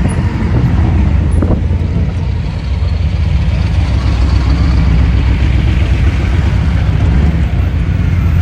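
Motorcycle engines running with a steady, loud low rumble.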